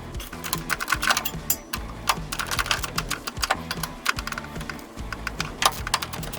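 Rapid, irregular metallic clicking of a ratchet wrench working on exhaust bolts, in uneven runs of several clicks a second.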